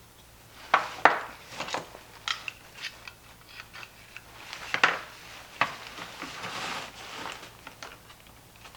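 Sharp plastic clicks, knocks and scraping as pry tools work at the press-fit plastic housing of an inflatable decoration's blower fan, forcing it apart. The loudest snaps come about a second in and again near five seconds, with a stretch of scraping after six seconds.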